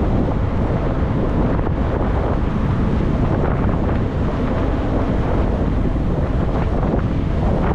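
Wind buffeting the microphone of a camera on a moving e-bike: a steady rumbling rush.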